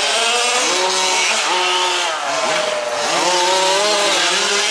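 Petrol two-stroke engines of several 1/5-scale RC off-road trucks racing, revving up and down with the throttle; the pitch falls about two seconds in, then climbs again.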